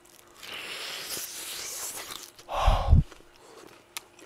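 Crunching and chewing of a bite of crispy fried chicken drumstick close to the microphone. About two and a half seconds in comes a short, loud, low muffled puff.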